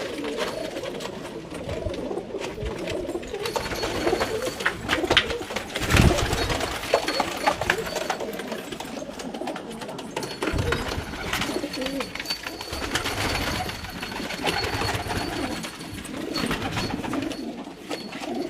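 Several domestic pigeons cooing continuously, overlapping one another, with scattered sharp clicks and a louder knock about six seconds in.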